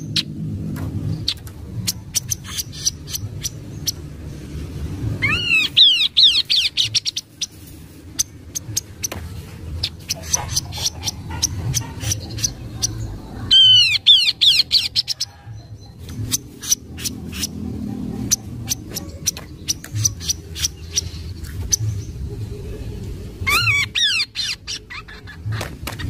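Kaso-kaso birds calling. Three bursts of rapid, arching whistled notes, about 6, 14 and 24 seconds in, with many short, sharp chips in between, over a low background rumble.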